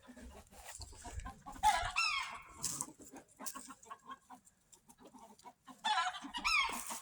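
Rooster clucking in short, pitched calls, one cluster about two seconds in and another near the end, with small clicks and rustles in between.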